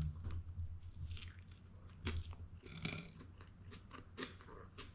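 A person biting into a chicken taco and chewing it, irregular soft crunching and mouth sounds, over a low steady hum.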